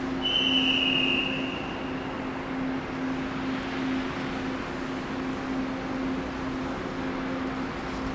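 Steady low hum of a passenger train at the platform, with one high, clear tone starting about a quarter second in and fading away over about a second and a half.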